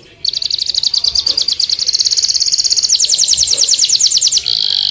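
Domestic canary singing vigorously: a fast trill of rapidly repeated high notes, switching about three seconds in to a run of sweeping notes, then a short held note near the end.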